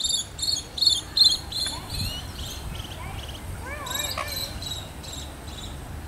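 Small birds chirping: rapid, high-pitched repeated chirps, with a short run of lower rising-and-falling notes about four seconds in, over a steady outdoor background.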